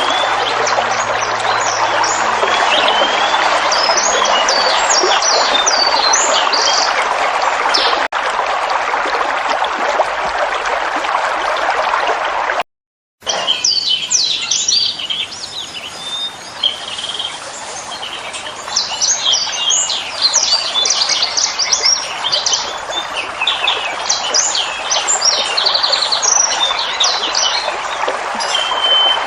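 Steady rushing water of a waterfall with many birds chirping and calling over it. About halfway through the sound cuts out for a moment; after that the water is quieter and the birdsong stands out more.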